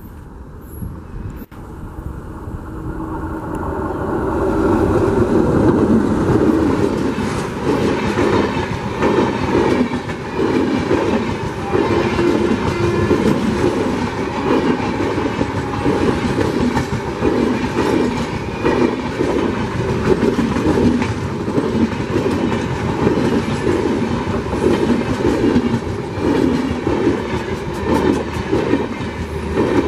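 An Indian Railways express hauled by a WAP4 electric locomotive passing close at speed. It grows louder over the first few seconds as it approaches, then a long rake of coaches runs by with a steady rhythmic clickety-clack of wheels over rail joints.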